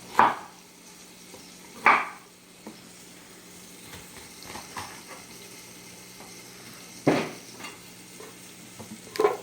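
Chicken pieces frying in oil, a steady sizzle, broken by four loud sharp knocks spaced a few seconds apart as broccoli is cut and broken into florets on a board.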